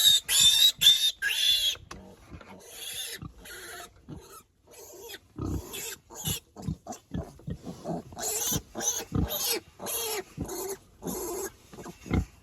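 Young piglets squealing in repeated short, high-pitched screams while being held, the loudest run in the first two seconds and another cluster about eight seconds in, with lower grunts between: a piglet's distress at being restrained.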